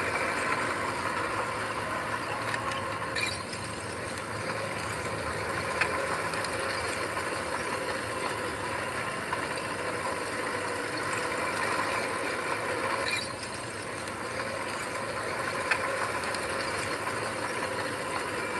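Heavy earthmoving machine's diesel engine running steadily, with a few sharp metallic clanks.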